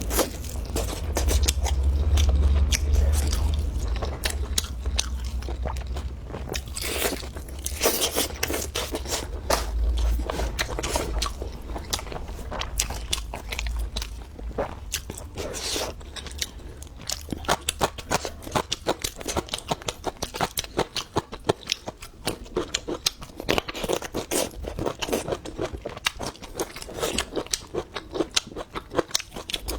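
Close-miked chewing of crunchy food: rapid wet crunches and bites that come quick and regular in the second half, over a low rumble in the first half.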